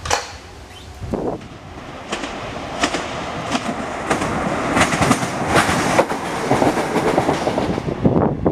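Class 156 diesel multiple unit approaching, its wheels clicking over rail joints and points in an irregular clickety-clack that grows louder over the first few seconds. A sharp knock at the very start.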